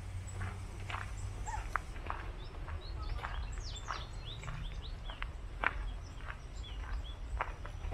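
Small birds chirping repeatedly in short, quick downward-sweeping calls, several a second, over a steady low rumble.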